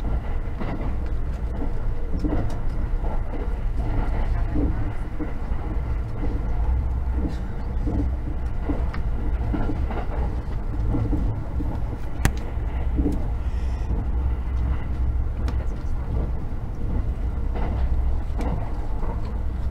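Inside a JR 683 series 4000 electric limited express train running at speed: a steady low rumble of wheels on rail, with a few faint clicks and one sharper tick about twelve seconds in.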